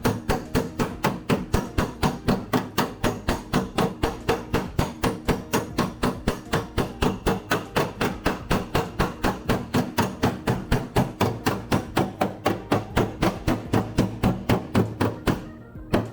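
Hammer striking a car's steel body panel in rapid, even blows, about four a second, as the metal is beaten straight; the strikes stop shortly before the end. Background music plays underneath.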